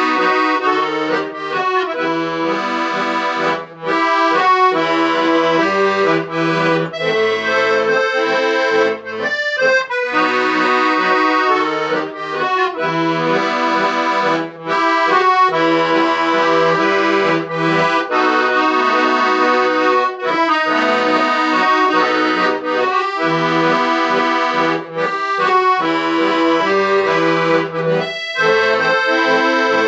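Accordion playing an instrumental tune, melody over chords and bass notes, with no voice.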